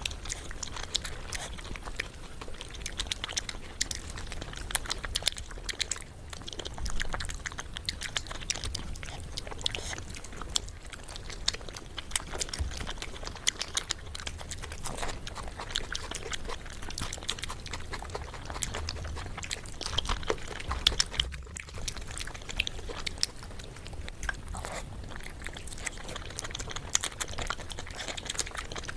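Close-miked eating sounds: chewing and biting of chicken and rice eaten by hand, a steady stream of small wet clicks.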